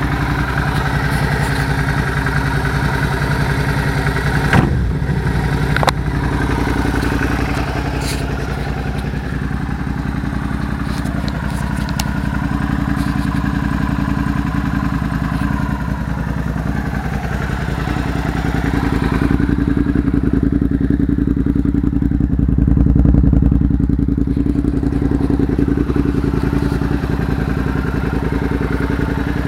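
Suzuki SV650S V-twin engine running steadily at idle through a short aftermarket GP-style stubby silencer, with a de-snorkelled airbox. Two sharp knocks come a few seconds in, and the engine is louder for a few seconds past the middle.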